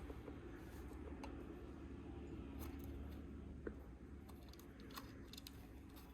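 Faint scattered clicks of small plastic Lego pieces being handled and pressed together, over a steady low room hum.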